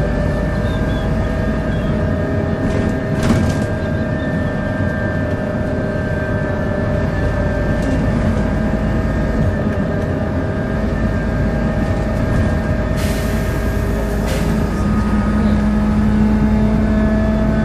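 Volvo B7L bus's six-cylinder diesel and driveline running under way, a steady drone with several held tones, the groaning this bus is recorded for. A short hiss comes about thirteen seconds in, and a stronger low hum sets in soon after.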